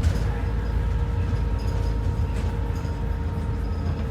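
ADL Enviro 400 double-decker bus heard from inside: a steady low engine and drivetrain rumble with a thin, steady whine over it.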